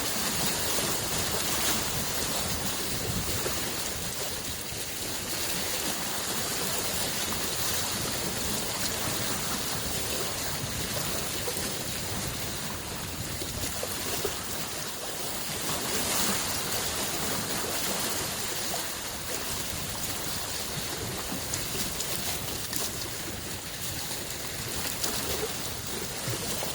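Small lake waves lapping on the shore, a steady wash of water noise that swells and eases every few seconds.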